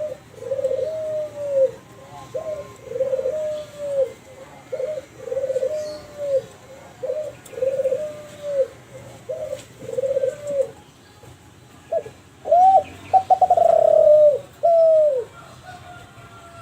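Kelantan derkuku (spotted dove) cooing: a steady series of arched, mid-pitched coos about one a second, then after a short pause a louder, quicker run of coos near the end.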